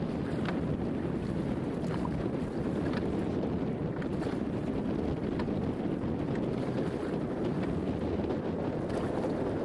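Wind buffeting the microphone aboard an open boat, a steady rumbling noise mixed with water sounds, with faint light knocks about once a second.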